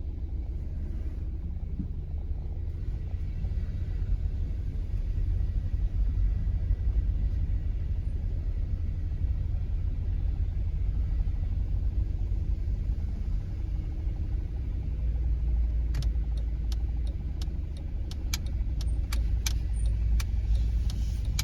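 Honda Freed minivan driving, heard from inside the cabin: a steady low rumble of engine and road noise. A run of sharp, irregular clicks starts in the last few seconds.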